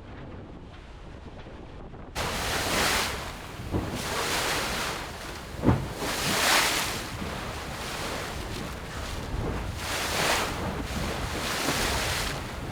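Wind buffeting the microphone and sea water rushing past a racing sailboat at speed, in repeated surges. The sound jumps suddenly louder about two seconds in, and there is one sharp thump a little before the middle.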